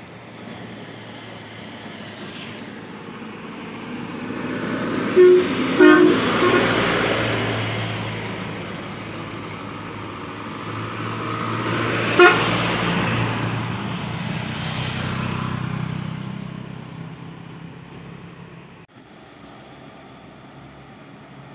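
Trucks passing by, their engine noise swelling and fading twice. Short horn toots sound twice about five seconds in and once more about twelve seconds in.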